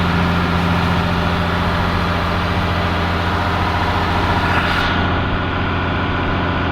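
Box truck engine running steadily, with a broad hiss over it that stops abruptly about five seconds in.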